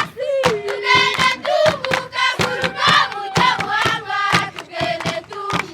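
A group of voices singing together over fast, steady hand clapping, about three or four claps a second.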